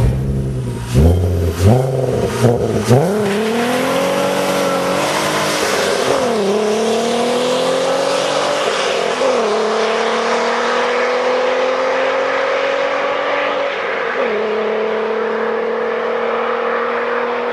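Volkswagen Golf 4 R32's 3.2-litre VR6 engine and exhaust under full throttle. A few short bursts of revs come in the first seconds, then the car pulls hard through the gears, the engine note climbing and dropping sharply at upshifts about six, nine and fourteen seconds in.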